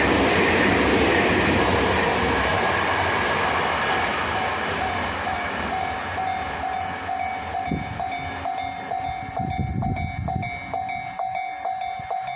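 A train running past over a level crossing, its loud rumble easing off over the first half. The crossing's warning bell rings on in a steady repeating pattern that stands out once the train has passed.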